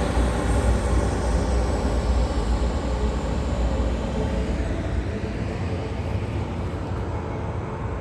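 Small Loram rail grinder passing, its engine running loud and steady, with a thin high whine over the top that drops slightly in pitch. The sound fades after about five seconds as it moves away.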